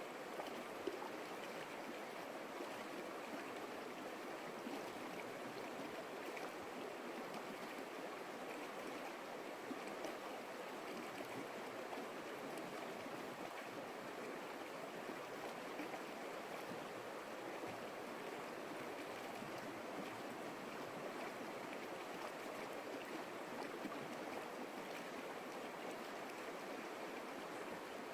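Stream water flowing steadily over its bed, an even rushing and burbling with no breaks.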